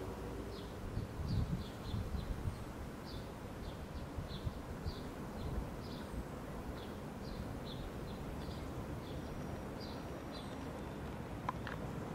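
Small birds chirping outdoors: short, high chirps, about one or two a second, over a low, uneven rumble of outdoor background noise.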